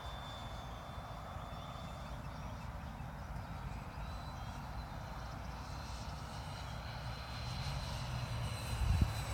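Electric ducted-fan model jet, an HK Tornado 75 Viper jet on a 6S battery, flying passes at a distance: a thin, steady high fan whine over a low rumble, with a thump near the end.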